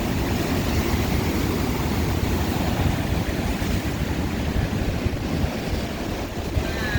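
Lake Michigan waves breaking on the shore in a strong wind, with the wind buffeting the microphone: a steady rushing noise, heaviest in the deep lows.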